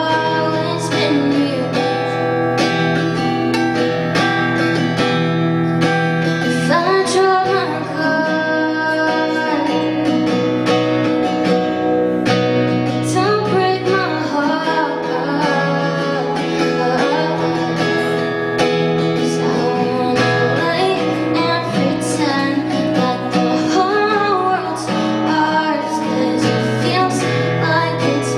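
A woman singing an indie-pop love song over guitar accompaniment, performed live.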